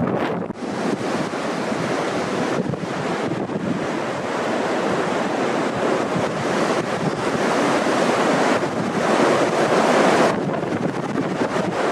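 Strong wind buffeting the microphone: a loud, gusty rushing noise with no clear tone that swells towards the end, then drops off sharply.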